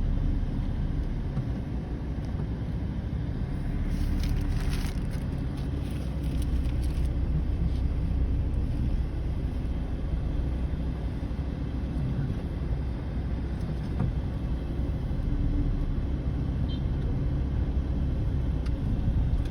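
Road traffic: a steady low rumble of engines and tyres, with a louder, brighter stretch about four to seven seconds in as a vehicle goes by close.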